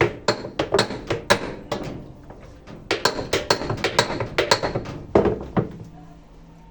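Hammer blows on a Stilson pipe wrench, driving tight the nut that holds a washing machine's drum on its transmission shaft. Quick metallic strikes come in runs: about five, a short pause, then about eight, then two more before it goes quiet.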